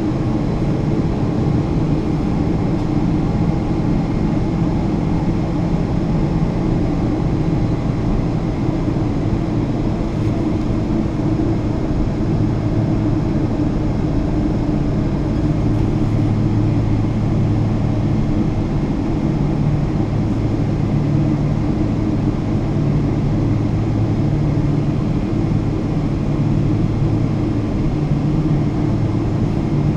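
Boeing 777-200 jet airliner's engines and airflow giving a steady, even drone, with no rise or fall in level.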